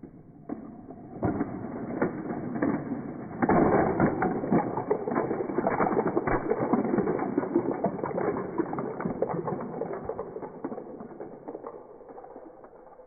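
Plastic LEGO truck parts clicking and rattling in a dense, continuous clatter. It steps up sharply about three and a half seconds in, then fades away slowly.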